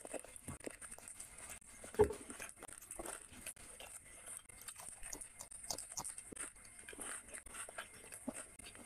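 Close-miked eating: wet chewing, smacking and small clicks as grilled chicken is bitten and chewed, with one louder knock about two seconds in.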